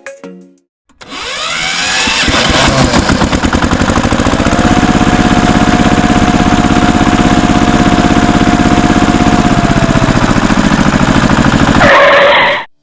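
A small engine starting up, rising in pitch at first and then running with an even, rapid chug; a brief brighter burst comes just before it cuts off abruptly near the end.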